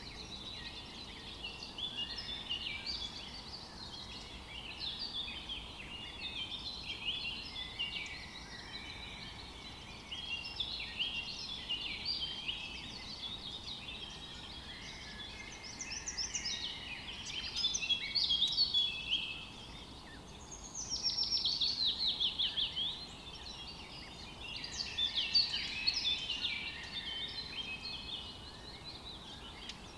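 Songbirds singing together in a dense chorus of short chirps and warbles that overlap without pause. A fast, rapidly repeated trill stands out about 21 seconds in.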